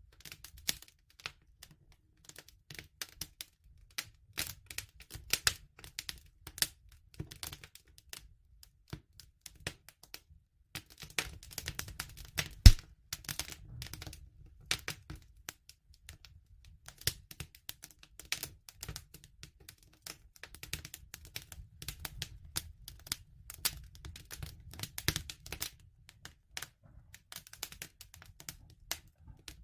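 Wood fire crackling: irregular snaps and pops over a low rumble of burning, with one sharper, louder pop about halfway through.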